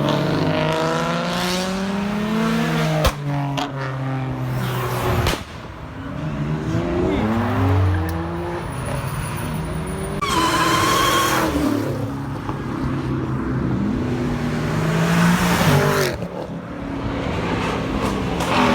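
Several high-performance cars accelerating hard one after another, their engines revving up and dropping in pitch with each gear change. About ten seconds in comes a brief high squeal with a hiss, typical of tires breaking loose.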